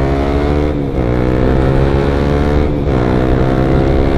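Honda CBR150R single-cylinder engine through an R9 aftermarket exhaust, accelerating hard through the gears. The pitch climbs, drops at an upshift about a second in and again near three seconds, then climbs again.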